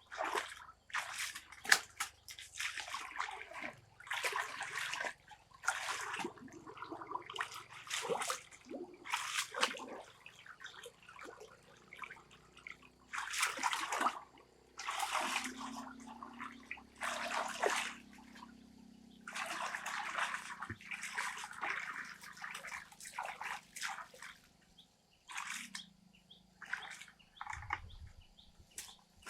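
Water splashing and sloshing in many short, irregular bursts, with brief quiet gaps between them.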